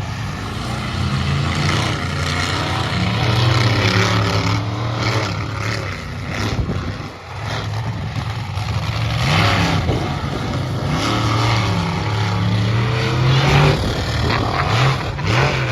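Monster truck engines at full throttle, revving up and down repeatedly as the trucks race off the start line, with a brief drop about seven seconds in.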